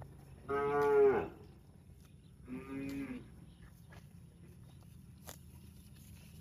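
Cow mooing twice. A loud call comes about half a second in and drops in pitch at its end, then a shorter, quieter moo follows about two and a half seconds in.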